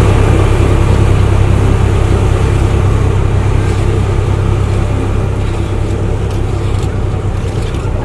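A large engine of road-construction machinery running steadily with a deep, even hum, slowly getting a little quieter.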